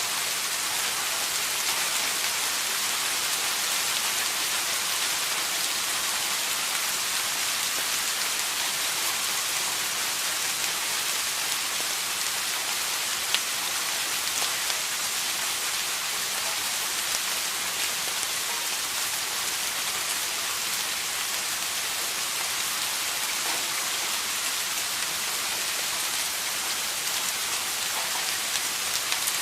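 Steady rain falling on a surface, an even hiss with occasional individual drop ticks.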